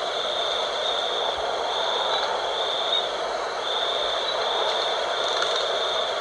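Wind blowing steadily at night, a constant rushing noise, with a high steady whine above it that breaks off and starts again every second or so.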